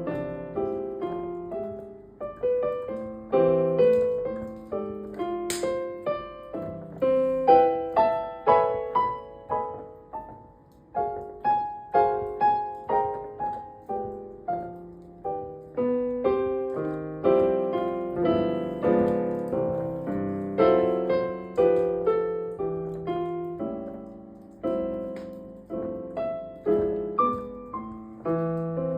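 Solo piano playing a Christmas song, struck notes ringing and fading. There is a single sharp click about five and a half seconds in.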